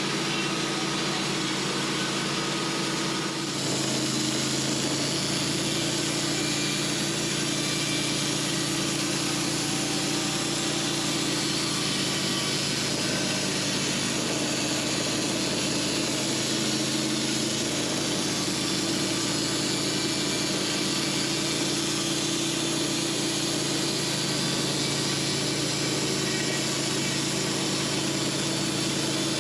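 Portable sawmill's engine running steadily. About three and a half seconds in it steps up in pitch and loudness, then holds at that speed.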